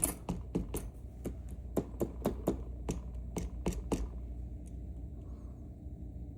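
A rapid string of sharp, irregular clicks and taps of small metal parts and tools being worked on a disassembled Mauer NW4 dimple lock, about a dozen in the first four seconds, then stopping.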